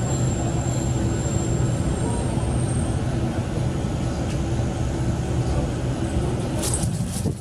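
KiHa 40-series diesel railcar heard from inside while running: a steady diesel engine drone with rail noise and a few brief clicks near the end.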